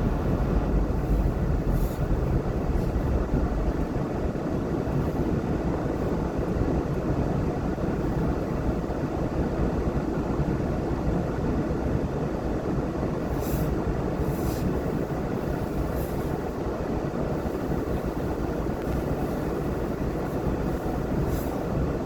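Steady road and engine noise of a car being driven, heard from inside the cabin, with a few faint short high ticks in the middle.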